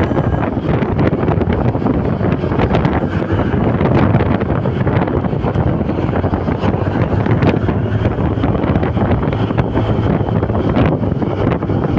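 Heavy wind blasting across the microphone: a loud, steady low rumble with constant crackling buffets.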